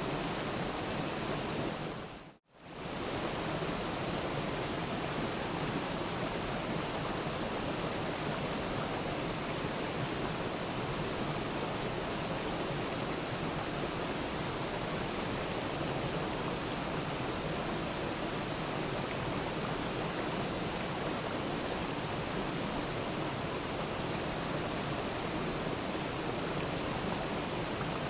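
Waterfall rushing in a steady, even roar of falling water. About two and a half seconds in it fades out to silence for a moment and straight back in.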